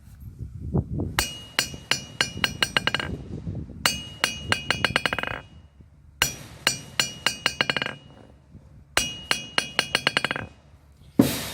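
Anvil rebound test: four times a steel object is dropped onto the anvil face and bounces in a quick run of ringing strikes that come faster and fainter until they stop, the anvil ringing with a clear high tone on each bounce.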